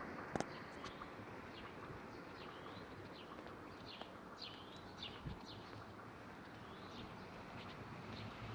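Small birds chirping in short, scattered calls over faint steady outdoor background noise, with one sharp click about half a second in and a soft thump about five seconds in.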